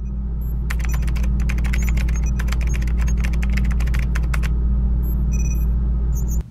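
Typing sound effect: rapid key clicks for about four seconds, then a few more near the end, over a loud steady low drone.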